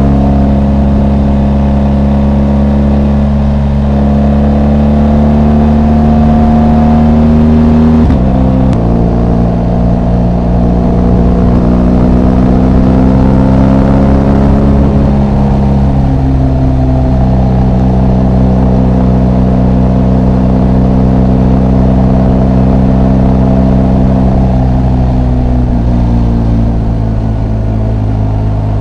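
BMW R 1250 GS Rally's boxer twin engine running under way, holding a steady pitch with small rises and falls. It breaks briefly about eight seconds in and comes back lower, like a gear change, and the pitch steps again twice later on.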